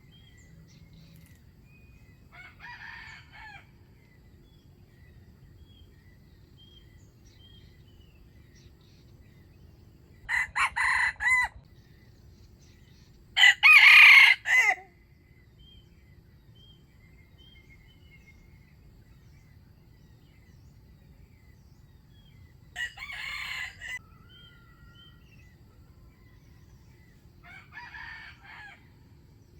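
Wild junglefowl roosters crowing: five separate crows of about a second each at differing distances, the loudest about halfway through. Faint short chirps of a small bird sound between them.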